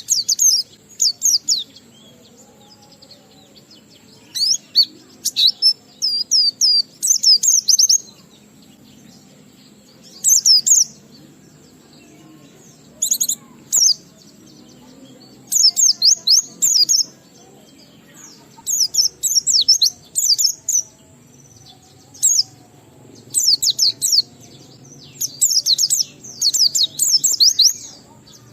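White-eye (pleci) singing in about a dozen bursts of rapid, high-pitched chirping phrases, separated by short pauses.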